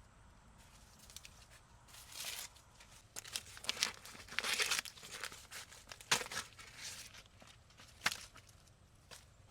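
Irregular bursts of tearing and crinkling, several in quick succession about a third of the way in, with sharper single ones later.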